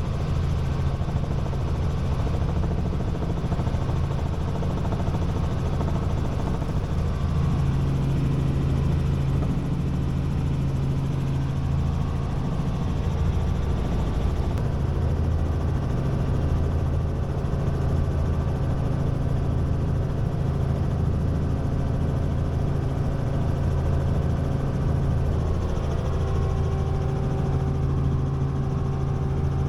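Robinson R44 Raven I helicopter in flight: the steady drone of its six-cylinder Lycoming piston engine and rotors. A higher steady tone joins near the end.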